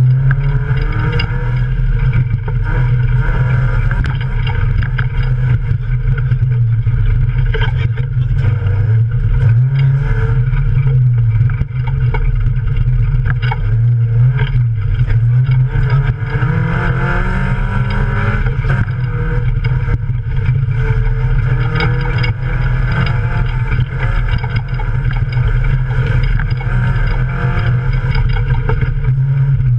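Toyota Yaris competition car's engine heard from inside the stripped, roll-caged cabin, running hard and rising and falling in pitch as it revs and changes gear. Scattered knocks and rattles from the bodywork run through it.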